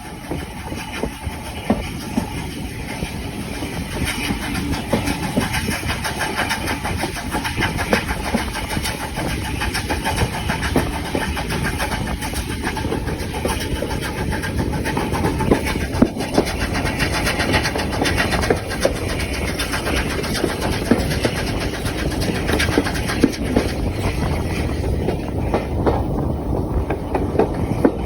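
Swanage Railway heritage train running along the line. The sound grows louder over the first few seconds, then holds steady.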